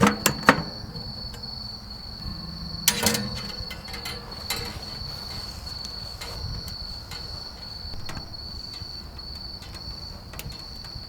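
Cricket chirping steadily in a high, fast trill, with a few sharp knocks near the start and about three seconds in.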